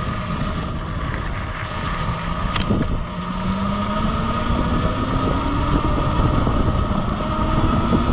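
Dirt bike engine running under way, its note rising steadily as the bike picks up speed, with wind rumbling on the microphone.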